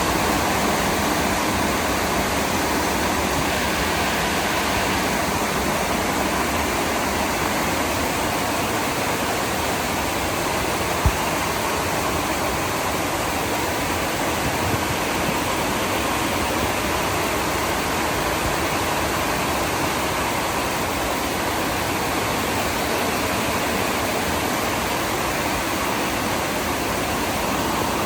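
Steady rain falling, an even hiss, with a single sharp tap about eleven seconds in.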